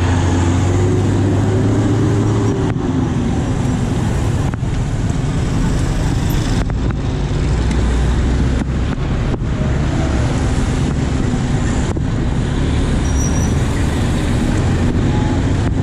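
Steady road traffic noise: vehicle engines running with a continuous low rumble on a busy street.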